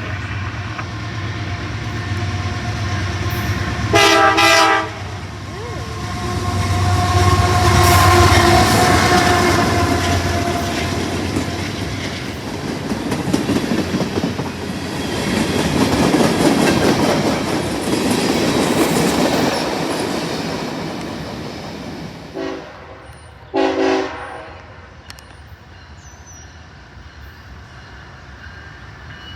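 A train passing close by, its wheels rolling on the rails, with a chime horn sounding: one long blast about 4 s in, then a short and a long blast near the end, after which the train noise fades.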